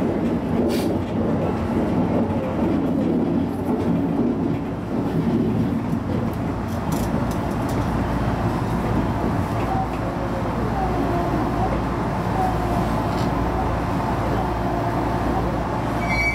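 Steady running noise of a JR East HB-E210 hybrid railcar, heard from inside the front of the train: wheels rumbling on the track. A deeper low drone comes in about halfway through.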